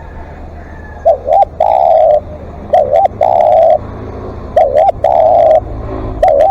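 Spotted dove cooing in long repeated calls. Each phrase is a short quavering double note followed by a longer steady coo, coming about every 1.7 seconds, three times with a fourth starting near the end.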